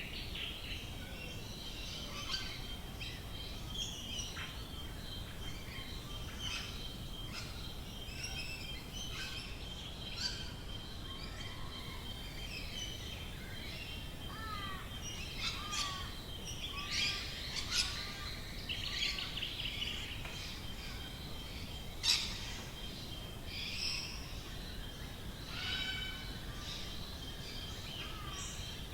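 Several wild birds of the Australian bush chirping and calling, short notes and trills overlapping, with one sharp call standing out about two-thirds of the way in. A thin, steady high tone and a soft background hiss run beneath them.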